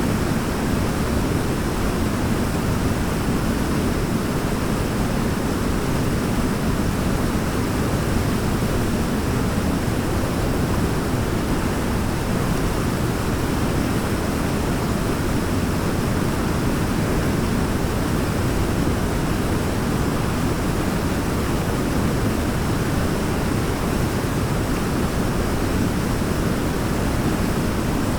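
Waterfall: a steady, unbroken rush of falling water, deep and even.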